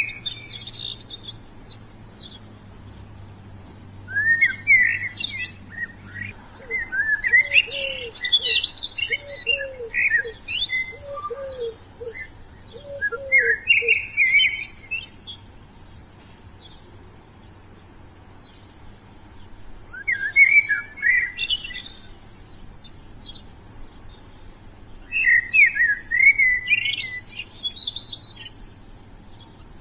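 Wild songbirds chirping and singing in bursts of quick, varied phrases, with quieter gaps between them. Partway through, a lower call of about eight evenly repeated notes sounds under the chirping.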